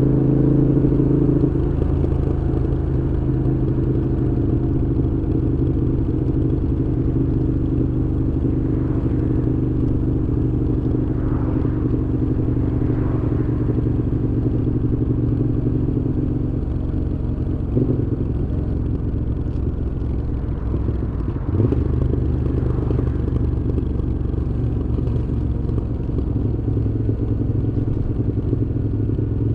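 Moto Guzzi V7's air-cooled transverse V-twin running through Mistral aftermarket exhausts while riding. The engine note holds steady, changing pitch about 2 seconds in and again midway, with two brief knocks soon after.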